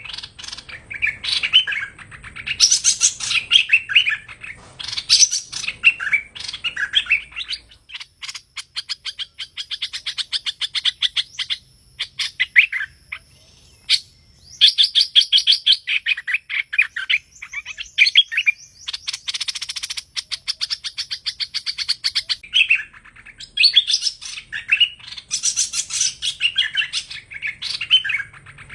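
Hoành hoạch songbird singing. Quick chirping phrases give way, about eight seconds in, to a long string of rapid repeated notes, and the chirping phrases return near the end. This is the call played to lure the bird into a trap.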